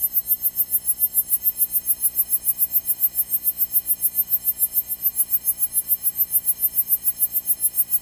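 A steady buzz in the Cessna 172's cockpit intercom audio, made of many even tones and pulsing fast and evenly, about nine times a second.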